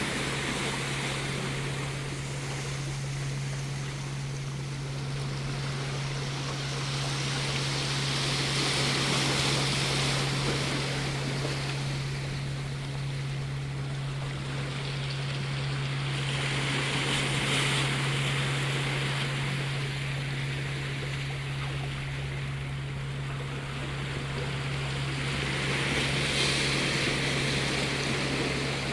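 Sea waves washing onto the beach, swelling about every eight to nine seconds, over a steady low hum.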